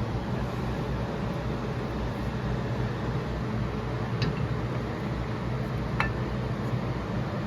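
Two light metallic clinks, about four and six seconds in, as brake caliper parts are handled, over a steady low background hum.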